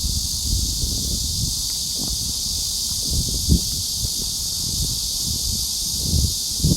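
Wind buffeting the microphone in irregular low rumbles over a steady high-pitched hiss, with one dull thump about three and a half seconds in.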